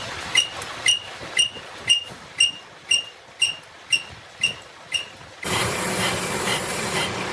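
Metal ticking with a short ring, about two ticks a second, from crankshaft machining. About five seconds in, a steady machine noise starts under the ticks, and the ticks carry on.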